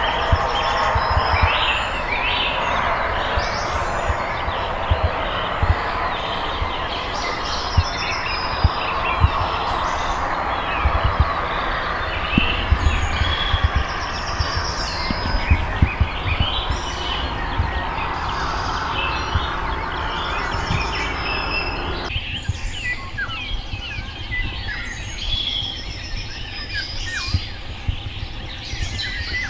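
Many songbirds chirping and trilling over a steady low rumble with frequent thumps. A rushing noise underneath stops suddenly about 22 seconds in.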